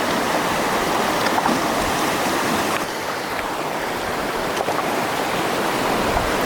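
Flowing water rushing steadily, with a few faint clicks.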